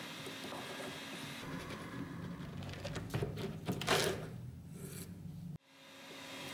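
Workshop handling noise: parts being moved and slid, with a louder scrape about four seconds in. The sound then cuts off abruptly and comes back as a steady low hum.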